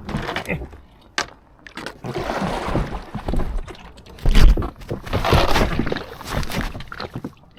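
Kayak paddle strokes splashing and sloshing water, with a few sharp knocks and one heavy thump a little over four seconds in.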